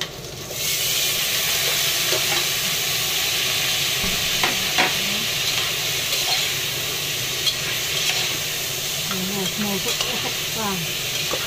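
Cut squash sizzling in hot oil with sautéed garlic and onion in a pot: a steady hiss that starts suddenly about half a second in as the pieces drop in. A spatula stirs the pot, with a couple of sharp knocks against it a few seconds in.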